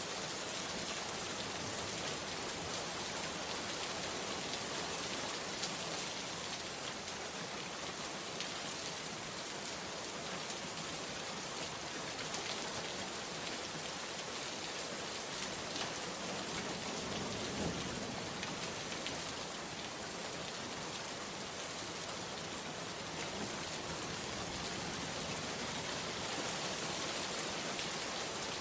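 Steady rain falling: a dense, even hiss with many small individual drop ticks scattered through it.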